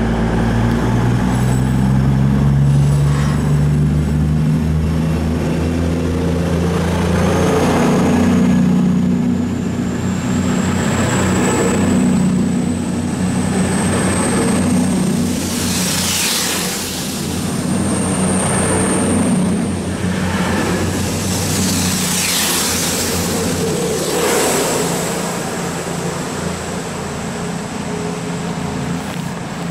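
A train running past: a steady low engine hum, strongest in the first dozen seconds, with a thin high whine that rises slowly in pitch, and several swells of rushing noise as the carriages go by.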